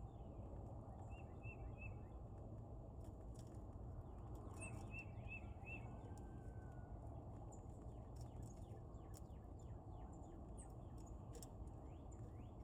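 Faint outdoor ambience, a steady low rush, with wild birds calling from a distance. A run of three short repeated notes comes about a second in and four more near the middle, followed by scattered faint chirps.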